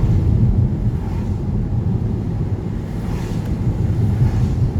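Steady low rumble of road and engine noise inside a moving car, with a faint hiss that swells briefly about three seconds in.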